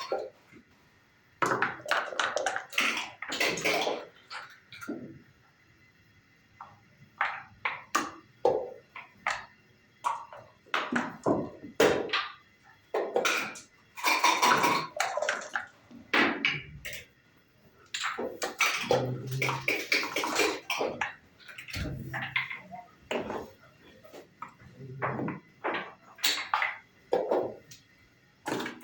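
Backgammon play: dice rattled and rolled so they bounce on the board, and checkers clacked down, giving clusters of sharp clicks and taps with short pauses between moves.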